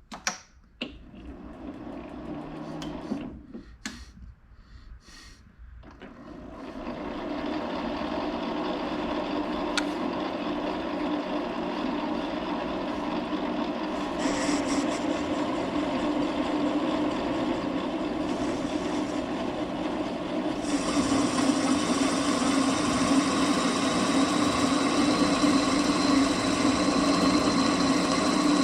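A few clicks and knocks of handling, then a metal lathe starts and runs steadily with an even motor hum. It grows louder and brighter about twenty seconds in.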